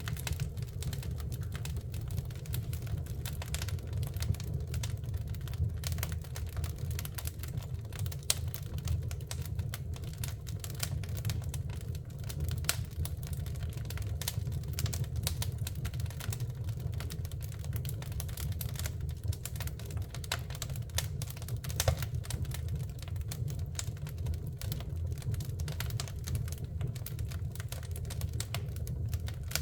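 Wood fire burning in a fireplace: a steady low rumble of flames with irregular crackling and snapping pops, one sharper pop about three-quarters of the way through.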